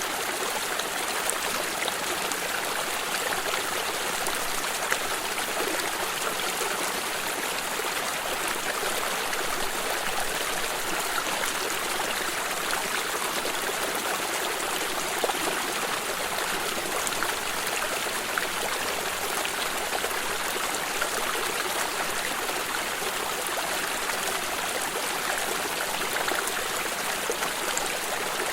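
Water stream flowing steadily, an even rush of running water with small trickles and splashes throughout.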